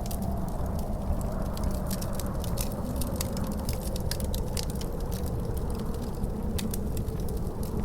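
Wood fire crackling with dense, irregular pops, over a steady low rumble of wind with a faint howl that wavers slowly in pitch.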